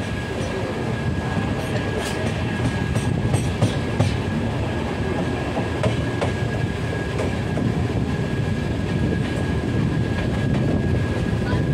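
Coach wheels of a moving passenger train rumbling over the track, heard from the coach doorway, with irregular sharp clacks as the wheels pass rail joints and points, most of them in the first half. A thin steady high tone runs under the rumble.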